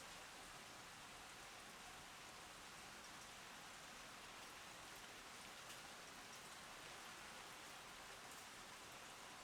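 Faint, steady rain: an even hiss with scattered drops ticking.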